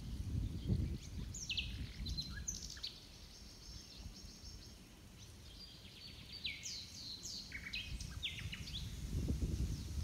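Songbirds singing in the trees: a run of quick, high down-slurred notes and short whistles, several overlapping, over a low rumble that is strongest at the start and near the end.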